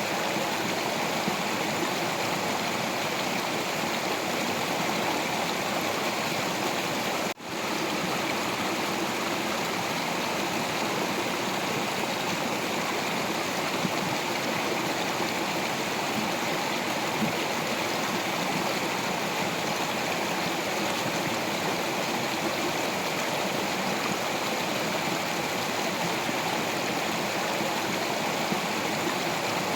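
Stream water flowing steadily over rocks, with a momentary break in the sound about seven seconds in.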